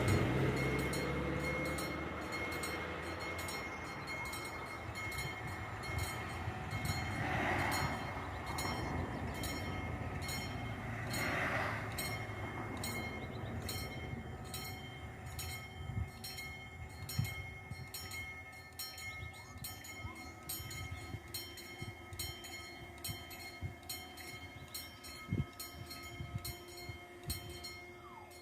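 Level crossing's TD 96/2 electronic warning bells ringing in quick, even strokes, about two a second, as a train passes. The train's rumble is loud at first and fades away, leaving the bells and a few scattered low knocks.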